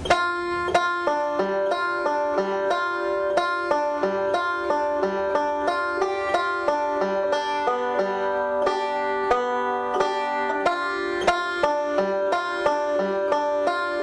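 Five-string banjo picked solo in three-finger bluegrass style: a steady, rapid stream of rolls and pinches with bluesy fretted notes, each note ringing briefly.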